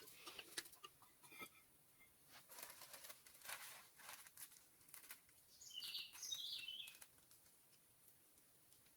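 Faint rustling and light clicks, then a short burst of high chirping from a bird about six seconds in.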